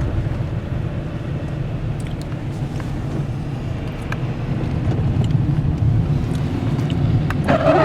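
Steady low rumble of a car driving at highway speed, engine and road noise heard from inside the cabin.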